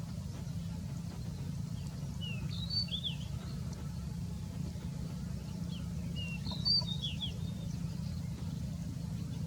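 Small bird chirping in two short clusters of quick sliding calls, about two and a half seconds in and again near seven seconds, over a steady low rumble.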